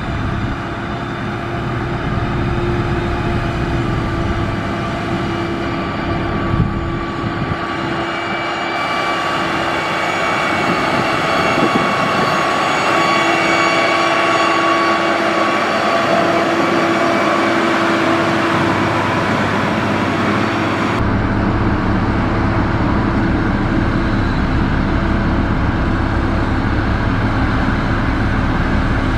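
Heavy diesel engine of a motor grader running steadily under load, with a whine of several steady tones over the engine noise. The sound changes abruptly about 9 seconds in and again about 21 seconds in, with the deep low end returning strongly at the second change.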